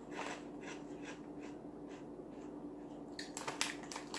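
A person chewing a crunchy Crujitos cheese-and-chili corn twist chip, about three or four crunches a second, with a few sharper crackles about three seconds in.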